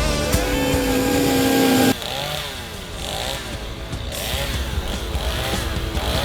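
Music ends on a held chord, then about two seconds in it cuts abruptly to a chainsaw engine revving up and down over and over, about once or twice a second.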